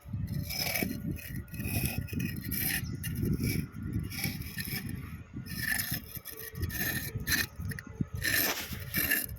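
Metal parts of a multistage high-pressure pump being handled and fitted together: irregular scraping and rubbing, broken by sharp metallic clinks every second or two.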